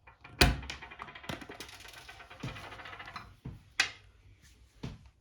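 Hard clicks and knocks of toy construction-kit parts being handled and fitted together, about five sharp ones spread over the few seconds, the loudest about half a second in.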